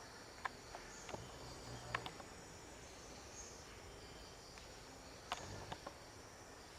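Faint, steady chirring of insects, broken by a handful of sharp clicks. The loudest clicks come about two seconds in and again just past five seconds.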